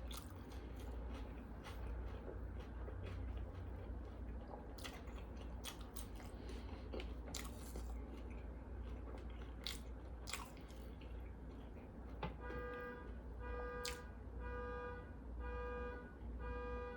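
Close mouth sounds of someone eating a bacon-lettuce-tomato sandwich: chewing with crisp crunches and wet clicks. About twelve seconds in, a pitched beep starts and repeats roughly once a second.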